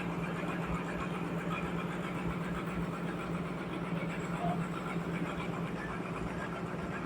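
Sawmill machinery running steadily: a constant low mechanical hum with even noise above it and no change in pitch.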